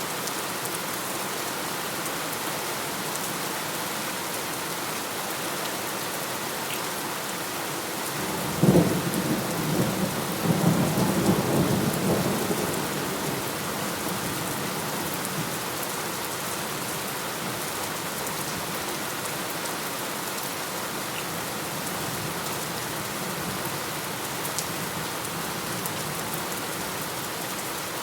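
Steady heavy rain with a thunderclap about nine seconds in: a sharp crack followed by a few seconds of low rolling rumble that fades back into the rain.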